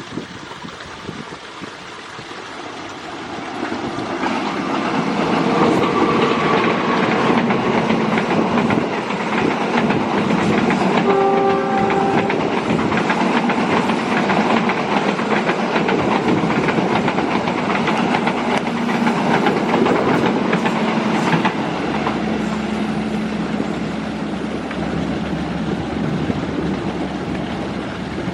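Passenger train running past, its noise building over the first few seconds, with the clatter of wheels on the rails. A short horn blast sounds about eleven seconds in.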